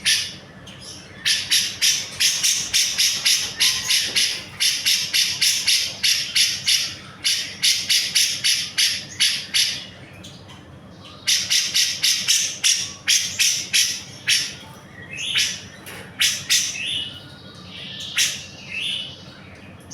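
Grey-cheeked bulbul (cucak jenggot) singing loudly in long runs of rapid, repeated high notes, about three or four a second, broken by short pauses, with scattered single notes near the end.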